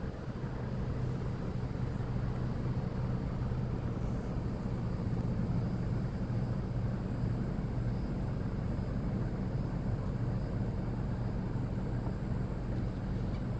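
Steady low engine hum with a constant pitch over some background hiss.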